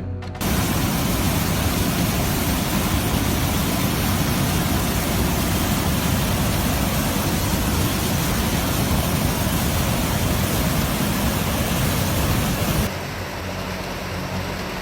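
Loud, steady rushing of fast floodwater that starts abruptly and cuts off about thirteen seconds in, followed by quieter music with held notes.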